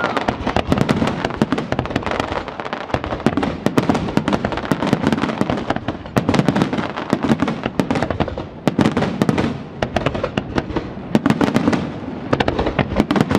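Fireworks display: a dense, continuous crackle of many rapid pops mixed with heavier bangs from aerial shells.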